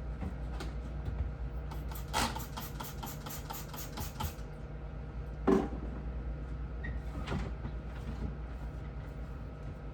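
Hands-on cleaning in a refrigerator: a quick run of about a dozen rhythmic rubbing strokes over two seconds, then a loud knock and a few lighter clicks of things being handled, over a steady low hum.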